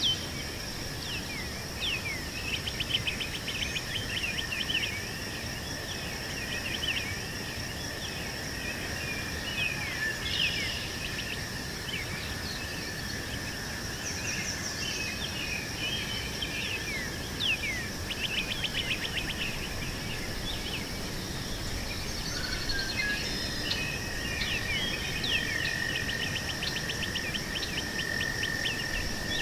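Birds chirping and trilling in short, repeated calls over a steady, high-pitched insect drone. The lower insect tone gets louder near the end.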